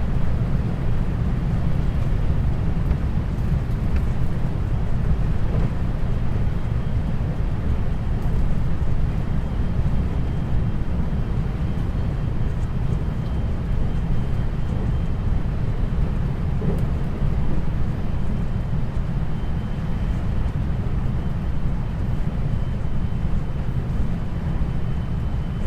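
Running noise heard inside a 521-series electric train's motor car (KuMoHa 521-24): a steady low rumble of wheels on rail. A thin, faint high tone joins in about six seconds in and holds.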